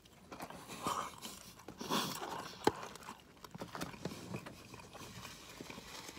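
Close-up chewing of a mouthful of french fries, with irregular small clicks and crunches.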